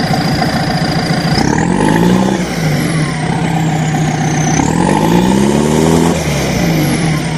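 Truck engine sound idling steadily and revving up twice, about two seconds in and again near the five-second mark, with a high whistling tone sweeping up and down over it.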